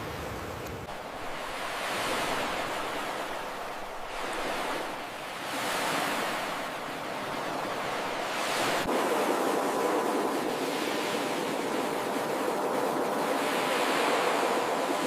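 Ocean surf: waves breaking and washing up the shore, swelling and easing every couple of seconds, then a fuller, steadier wash from about nine seconds in.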